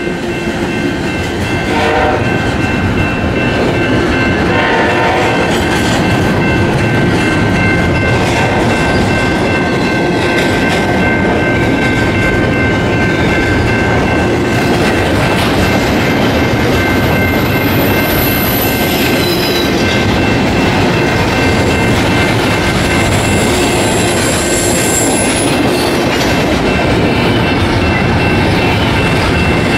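Freight train passing close by: BNSF diesel locomotives go past, then doublestack container cars roll by with a steady, loud rumble and wheel clatter on the rails, joined by a thin high ringing.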